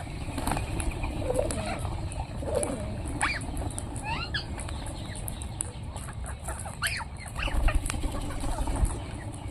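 Parrots calling: short, harsh sweeping screeches, in a cluster about three to four and a half seconds in and another around seven seconds, with fainter chirps between them over a low background rumble.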